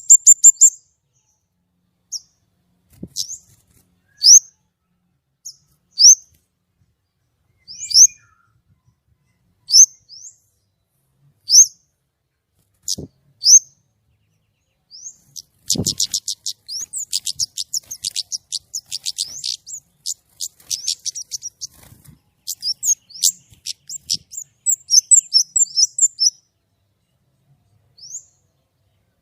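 Kemade bird singing loud and clear: sharp, high, piercing notes every second or two, then from about halfway a long fast run of rapid high notes before it slows to single notes again.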